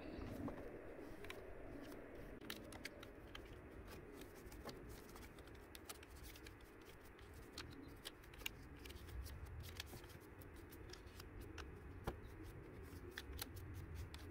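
Faint crackling of a wood bonfire: many small irregular pops and snaps, a few of them sharper.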